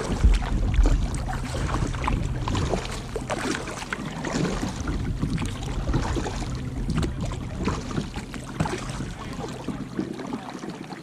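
Kayak being paddled: the paddle blades splash and drip in the water in an irregular run of small splashes and knocks. A low rumble runs through the first couple of seconds.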